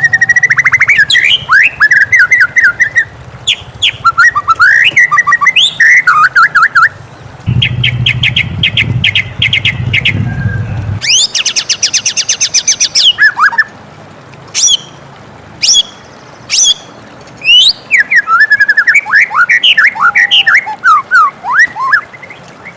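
White-rumped shama singing a long, varied song: phrases of loud whistles, rapid trills and sharp chipping notes, broken by short pauses.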